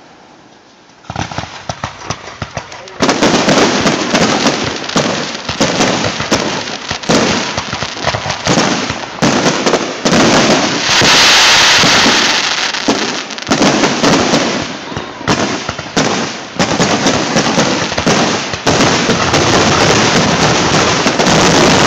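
Fireworks grand finale: after a second of quiet, scattered cracks build about three seconds in into a dense, continuous barrage of booming shells and crackle.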